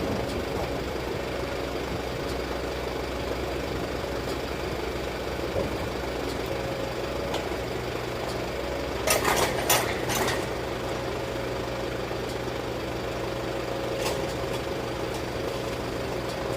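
An engine running steadily at idle, a constant low hum heard aboard a river vehicle ferry, with a brief clatter of knocks about nine seconds in.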